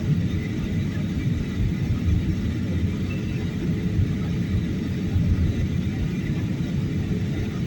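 Steady low rumble of airliner cabin noise during the descent, heard from inside the passenger cabin.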